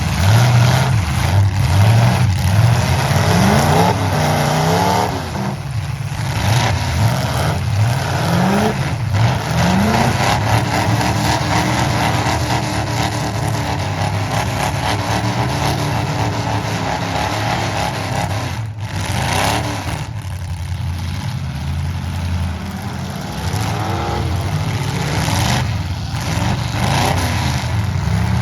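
Demolition derby trucks' engines running and revving hard, their pitch climbing and dropping again and again.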